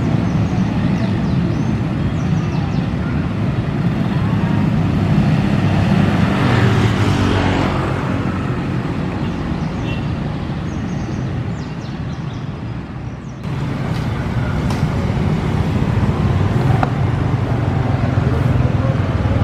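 Tank wagons of a shunting freight train rolling slowly over a street level crossing, with motorbike engines and traffic around them; louder around six to eight seconds in. A little past two-thirds of the way through, the sound changes abruptly to ordinary street traffic with motorbikes passing.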